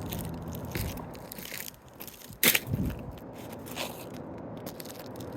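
Asphalt roof shingles being handled, with gritty scraping and crackling, and one sharp slap about two and a half seconds in followed by a duller thump.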